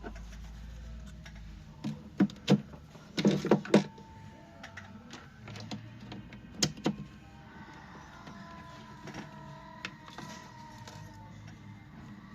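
Sharp clicks and knocks, a quick cluster about two to four seconds in and another near seven seconds, over a faint steady tone.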